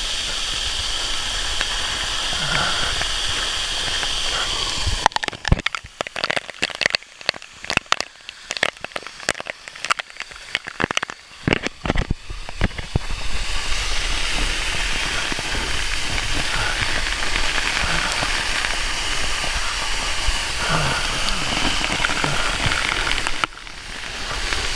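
Waterfall's rushing water, a steady hiss. For about seven seconds, starting around five seconds in, it gives way to a muffled stretch full of sharp clicks and knocks, then returns.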